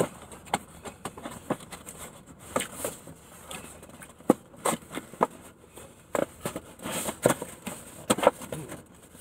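Close-up eating sounds as a person chews a cheesesteak sandwich: a string of irregular wet smacks and clicks from the mouth.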